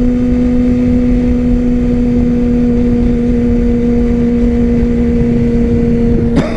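Yamaha R6's inline-four engine running at a steady, unchanging pitch while cruising, with wind rushing over the microphone.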